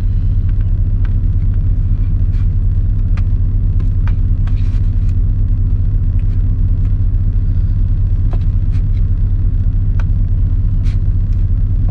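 Heavy diesel engine of a tractor-trailer idling, a steady deep rumble heard inside the cab, with scattered light clicks over it.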